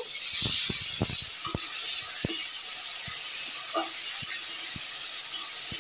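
Chopped tomatoes sizzling in hot oil in a kadai, a steady hiss, with a spatula knocking and scraping against the pan now and then as they are stirred.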